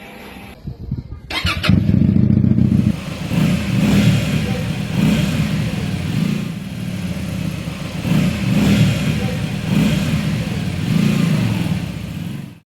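Keeway Benda V252's V-twin engine, breathing through a custom free-flow exhaust, starts about a second and a half in. It then runs at a loud, uneven idle that swells and dips about once a second, and stops abruptly near the end.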